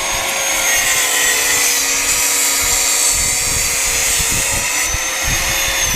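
Angle grinder cutting through steel exhaust pipe: a steady motor whine with a bright hiss of cutting. Near the end it is switched off and its whine falls in pitch as it winds down.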